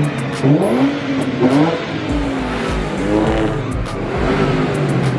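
Car engine being revved, its pitch rising and falling several times in quick swells.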